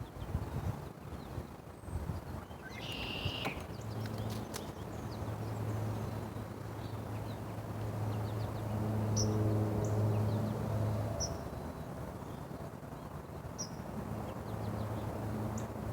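Birds calling outdoors: one short call about three seconds in, then scattered brief high chirps. Under them runs a low steady motor hum that grows louder in the middle, fades, and comes back near the end, like a vehicle passing at a distance.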